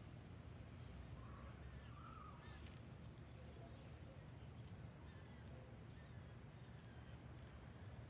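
Faint garden bird calls: a few short chirps and whistles, some rising or falling in pitch, over a low steady background rumble.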